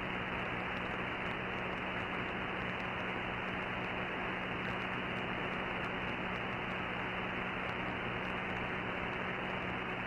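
Steady hiss of static and band noise from a CB radio receiver with no signal coming through, with a low steady hum underneath.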